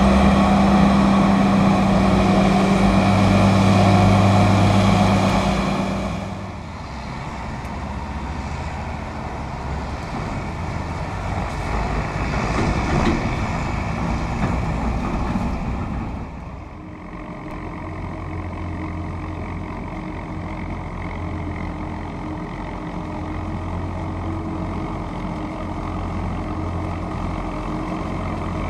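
Large diesel engines of a forage harvester and a big tractor at work. One engine runs loud and close with a steady hum for about six seconds, then the sound drops to a more distant, mixed machine noise. From about seventeen seconds another engine runs steadily.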